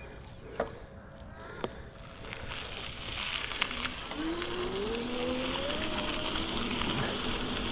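Wind rushing over the microphone as a bicycle gets moving again, rising and then holding steady, after two small clicks about a second apart. In the middle a motor's whine rises in pitch for a couple of seconds.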